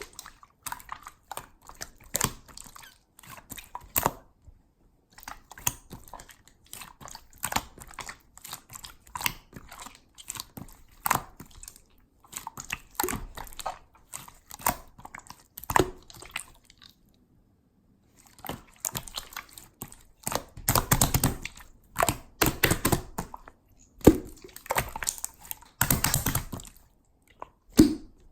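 Clear slime being squished and pressed by hand, making irregular sticky clicks and pops. It pauses briefly about 17 seconds in, and gets denser and louder around 21 and 26 seconds in.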